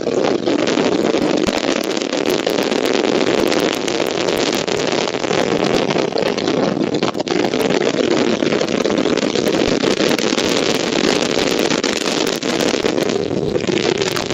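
Strong wind buffeting the nest camera's outdoor microphone: a loud, steady rushing roar with no break.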